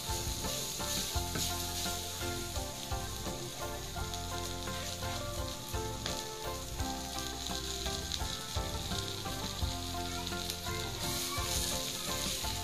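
Sago grubs frying with sago flour in a pan: a steady sizzle.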